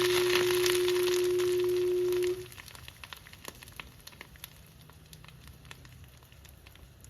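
Lakewood box fan motor burning out: a loud steady electrical hum with sizzling and crackling over it, which cuts off abruptly about two seconds in, leaving faint crackles and ticks.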